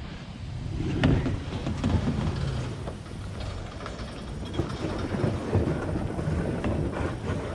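Heavy wind buffeting a head-mounted action camera's microphone on open water, a gusting low rumble, with a few sharper knocks or splashes from kayak paddling.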